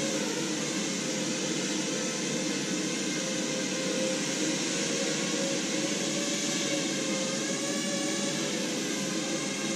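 Quadrotor's electric motors and propellers buzzing steadily in flight, with a multi-toned whine whose pitch wavers slightly as the motor speeds adjust.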